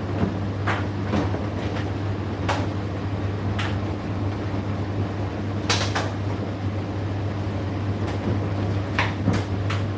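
Indesit IDC8T3 condenser tumble dryer running mid-cycle: a steady low motor hum as the drum turns, with irregular clicks and knocks from the load tumbling against the drum.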